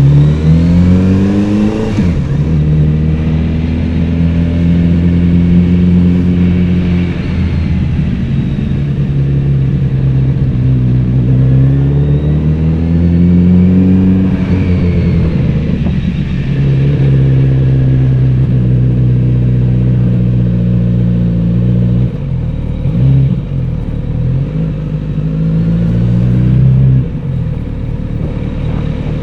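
Kawasaki Z900RS inline-four motorcycle engine and exhaust under way. It revs up and drops at a gear change about two seconds in, cruises, climbs and falls again about halfway through, then runs on with small throttle blips near the end.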